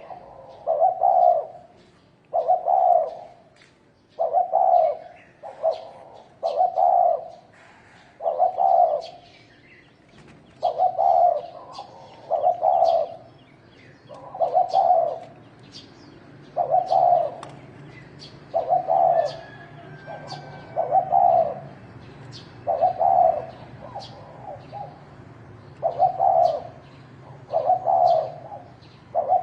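Spotted dove cooing over and over, a short phrase about every two seconds, the territorial call used to provoke rival males. Short high chirps of small birds sound faintly behind it.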